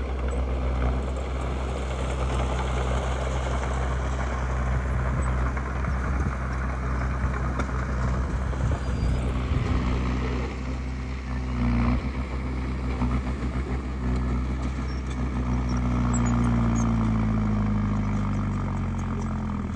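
Diesel engine of heavy earthmoving machinery running steadily under load. Its note dips and shifts about halfway through and glides again near the end.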